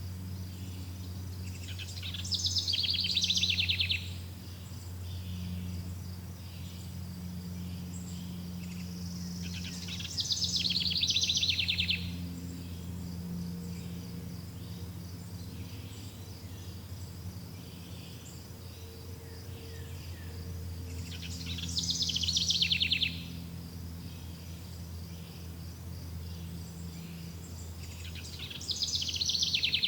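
Nature soundscape: a steady chorus of chirping insects, with a rapid buzzy trill call lasting about two seconds that sounds four times, and a low steady drone underneath.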